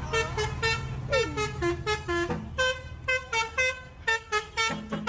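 Truck horn sounding a rapid run of short toots at changing pitches, like a tune, over the low rumble of the engine.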